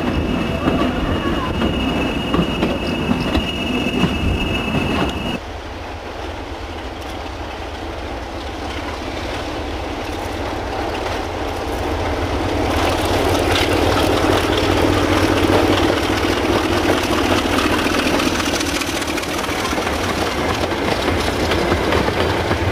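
Passenger coaches rolling past with wheel clatter and a steady high-pitched whine. About five seconds in this gives way abruptly to a diesel locomotive hauling a train of wagons, its engine and the wagon rumble growing louder about halfway through as it passes.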